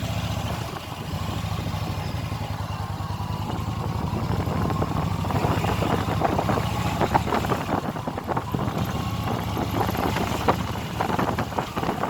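Motorcycle engine running under way, its pitch climbing slowly through the first half, with rougher, gusty noise over it later on.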